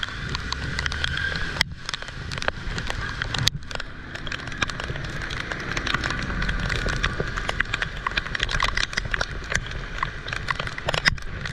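Heavy rain falling, a dense patter of drops over a low rumble, with the sound cutting out briefly a few times.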